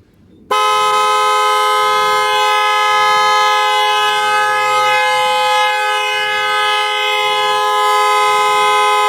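2008 Dodge Nitro's horn blaring continuously. It is one steady two-note blast that starts suddenly about half a second in and holds without a break. It sounds as the battery is reconnected while the factory alarm system is blocking the car from starting.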